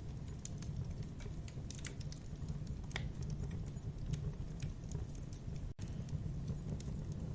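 Campfire burning: a steady low rumble of flames with frequent small crackles and pops from the burning wood. There is a momentary dropout about two-thirds of the way through.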